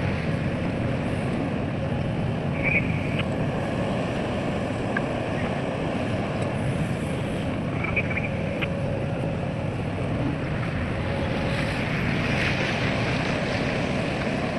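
Heavy diesel machinery running steadily, with two brief high squeaks about three and eight seconds in.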